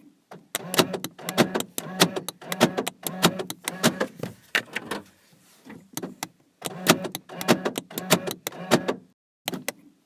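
Quick runs of sharp clicks, several a second, coming in bursts; the clicks soften about five seconds in and stop briefly near the end.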